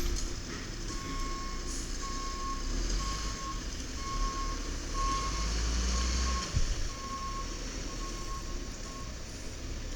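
Backup alarm of a 1995 Peterbilt 310 diesel garbage truck beeping about once a second, some nine beeps, over the low running of the engine. A short knock sounds about two-thirds of the way through.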